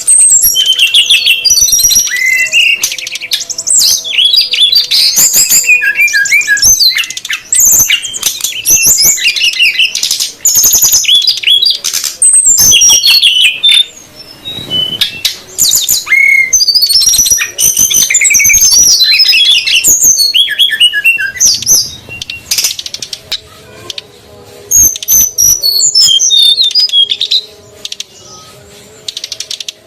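Brown-chested jungle flycatchers (SRDC), male and female, calling busily in a loud, fast jumble of high chirps and whistles, a bird-lure recording for drawing in wild birds. The calling pauses briefly about halfway through and again near the end.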